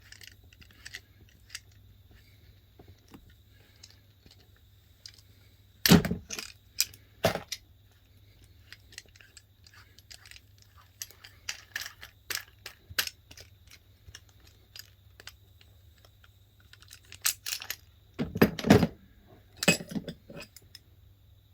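Metal tool and fittings being handled: scattered clicks, clinks and knocks, with two louder bursts of clatter about six seconds in and again near eighteen seconds.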